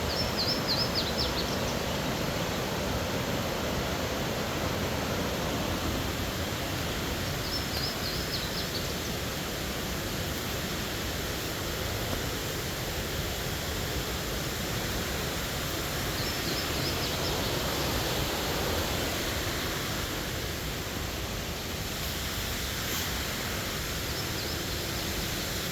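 Steady rushing of a large waterfall, Burgess Falls on the Falling Water River. A bird's short high trill repeats four times, about every eight seconds.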